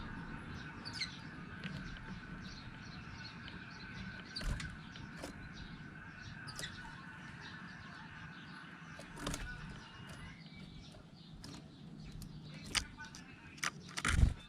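Birds at a feeding spot: a few short falling chirps and scattered sharp clicks over a steady low background rumble and hum. Several louder sharp knocks come near the end.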